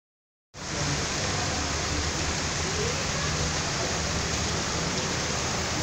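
Heavy rain pouring down in a storm, a steady dense hiss with a low rumble beneath it, starting about half a second in.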